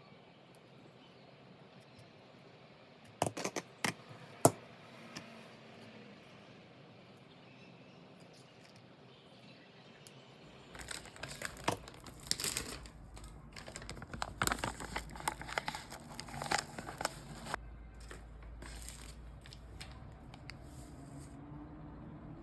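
A few sharp clicks, then from about ten seconds in a long run of crinkling and rustling, as of something being handled.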